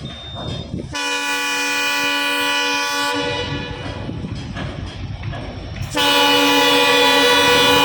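Train horn sounding two long, steady blasts, the first about a second in and the second starting about six seconds in, over a low rumble of a moving train.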